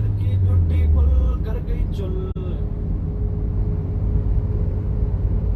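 Car running on the road: a steady low rumble of engine and road noise with a faint steady hum, heard plainly once the music ends about two seconds in.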